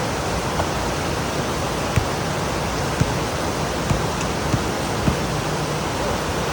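Heavy rain pouring down in a steady hiss, with a few sharper drops tapping about once a second around the middle.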